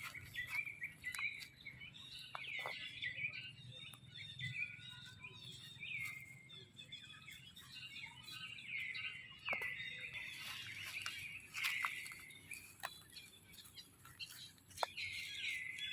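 High-pitched chirping calls repeated throughout, many of them sliding down in pitch, with scattered sharp clicks between them.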